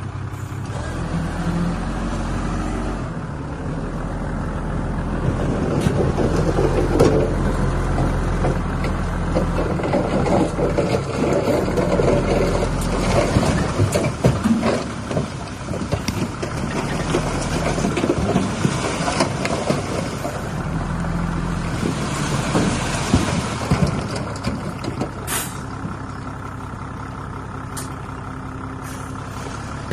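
Heavy diesel construction machinery working: an engine running steadily under load with rattling and clanking, and a short sharp hiss near the end.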